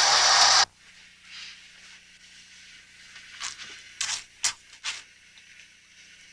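Hiss of running shower water that cuts off abruptly less than a second in. Faint room tone follows, with a few short, sharp sounds near the middle.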